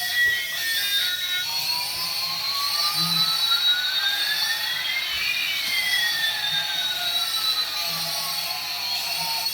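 Electronic jet-like whooshing sound effect: two whistling tones glide in opposite directions, one rising while the other falls, crossing about halfway through, over a steady hiss.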